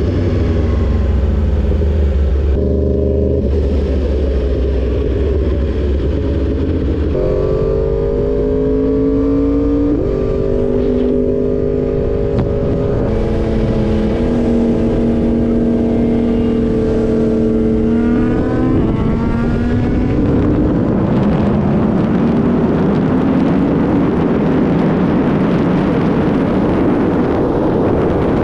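Inline-four sportbike engine under way, its note holding steady and then stepping to new pitches several times as the rider works the throttle and gears. In the last third the note climbs while wind rushing over the microphone grows louder.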